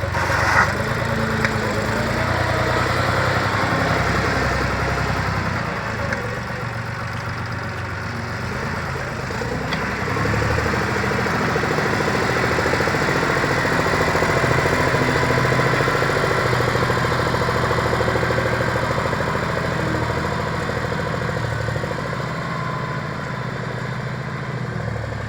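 John Deere 4x4 tractor's diesel engine running steadily, growing somewhat louder for several seconds midway and then easing back.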